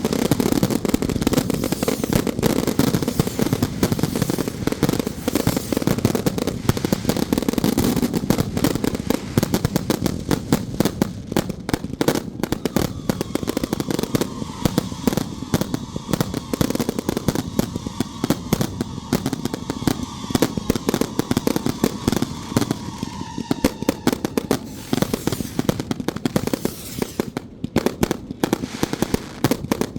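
Firecrackers going off in a dense, continuous crackle of rapid pops, thinning out with short gaps near the end.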